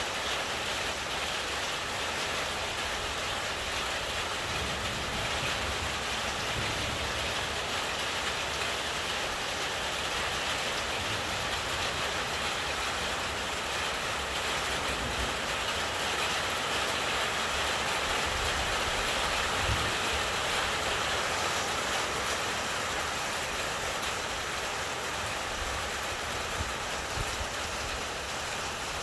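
Thunderstorm rain falling steadily, a constant hiss, with occasional brief low rumbles underneath.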